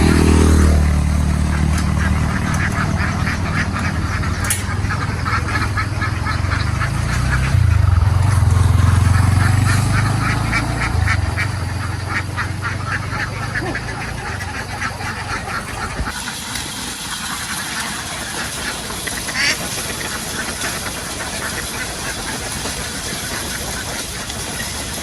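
A large flock of domestic ducks quacking continuously, many calls overlapping, over the low steady hum of an engine that cuts off abruptly about two-thirds of the way through.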